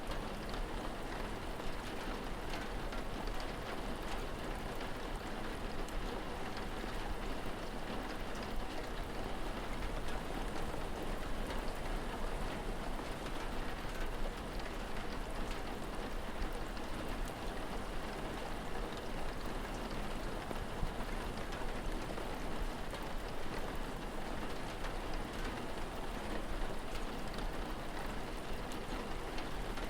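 Steady rain falling: an even hiss with small drop ticks scattered through it.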